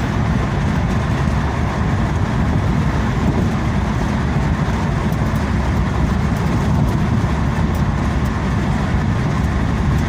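Plymouth Reliant K wagon under way, a steady mix of engine and road noise heard from inside the cabin, heaviest in the low end.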